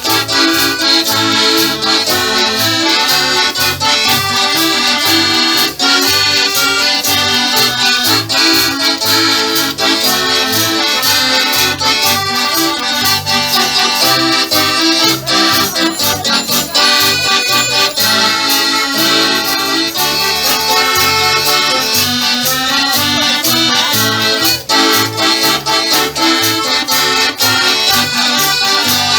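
Live folk band playing an instrumental break between sung verses, the tune carried by accordion over a pulsing bass line and a steady, evenly clicking beat.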